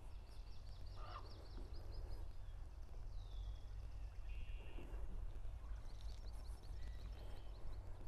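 Small birds singing in a reed marsh: rapid trills of quickly repeated high notes, twice, with a single falling whistle and a short buzzy note between them, over a steady low rumble.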